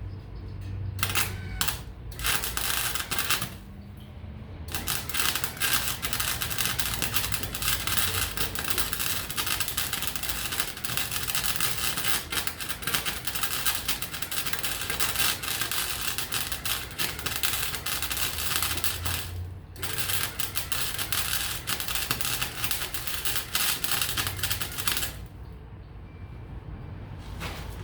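Electric welding arc crackling and sputtering on steel, in two short bursts followed by two long welds with a brief pause between them.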